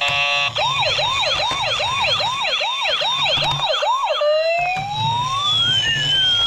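Toy police car's electronic siren: after a brief steady buzzing tone, a fast repeating rising whoop, about two and a half a second, changing about four seconds in to a slow wail that rises and then falls.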